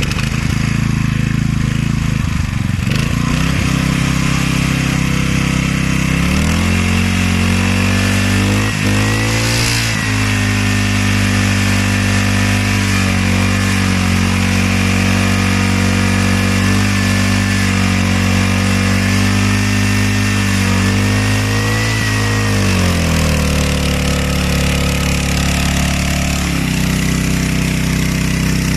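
Mitsubishi G510P water pump's 5 hp four-stroke petrol engine running steadily at low speed, then sped up about six seconds in, held at the higher speed, and brought back down to the slower speed near the end.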